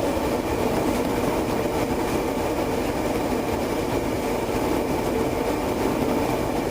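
Steady cabin noise inside a police car: an even hum and rush, with faint steady tones, and no sudden events.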